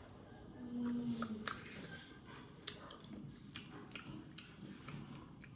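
Close-up chewing of goat head meat: wet mouth clicks and soft crackles scattered through, with a short low hum about a second in.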